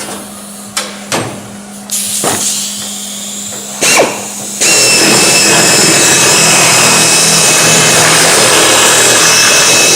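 A power tool cutting sheet metal on the race car's body. After a few quieter seconds and a knock, it runs loud and steady from about halfway through, with a high whine over a hiss.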